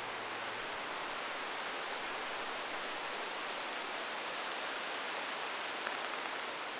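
Heavy rain pouring down, an even, steady hiss, heard under a fishing umbrella. A brief click comes near the end.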